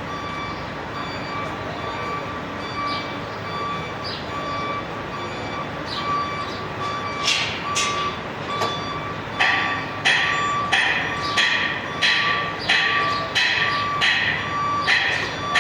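Hammer blows ringing on metal, a few at first and then a steady run of strikes about every half second. They start about seven seconds in and are the loudest sound. A pulsing electronic beep runs steadily underneath.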